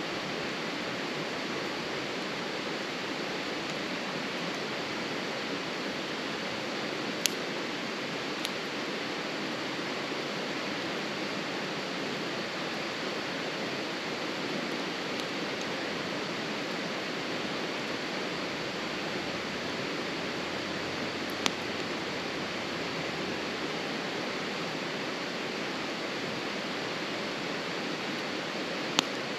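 Steady rushing noise, with a few isolated sharp pops from the burning wood of a campfire, the clearest about a third of the way in, twice more later on and near the end.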